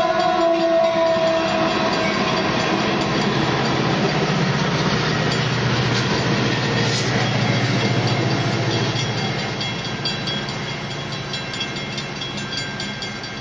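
Caltrain passenger train passing through a grade crossing, its rumble and wheel clatter peaking midway and then fading as it moves off. The tail of its horn blast, sliding slightly down in pitch, dies out in the first second or two.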